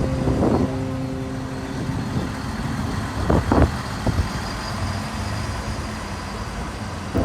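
Regional train running, a steady low rumble with a couple of short knocks about three and a half seconds in.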